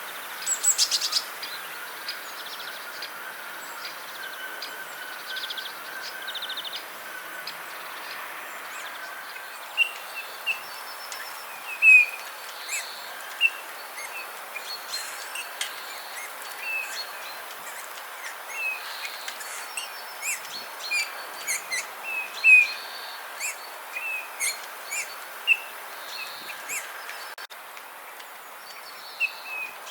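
Small songbirds giving many short chirps, scattered irregularly, over a steady background hiss, with a brief rattle of clicks about a second in.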